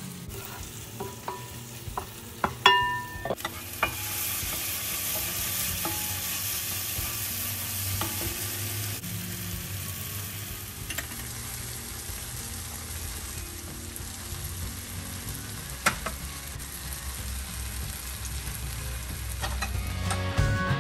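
Onions, tomatoes and green chillies sizzling in a hot wok while a wooden spatula stirs and scrapes them, with scattered clicks and one sharp ringing tap about three seconds in. From about four seconds in the sizzle is louder and steady.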